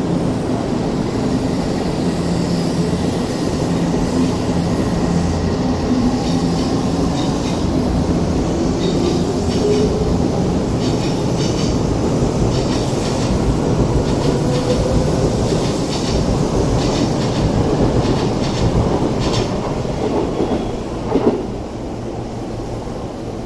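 Odakyu electric commuter train pulling out along the platform, with a steady motor hum and a run of clicks as its wheels pass over the rail joints; a single knock near the end, after which the sound fades down.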